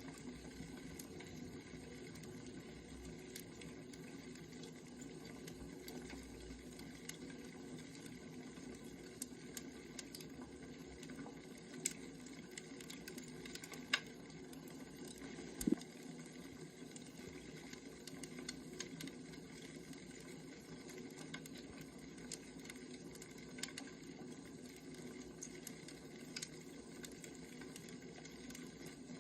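Wood fire crackling: a steady low hiss and rumble of burning logs with scattered small pops and snaps, a few sharper ones near the middle.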